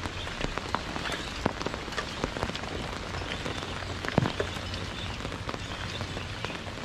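Steady rain falling, with many small drop ticks and a few louder drop hits, the loudest about four seconds in.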